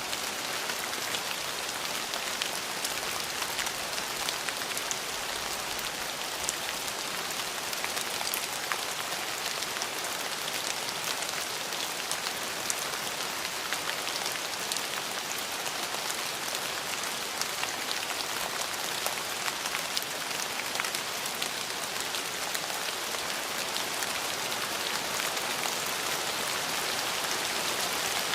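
Steady rain falling on a surface: an even hiss of rainfall dotted with the crisp ticks of single drops.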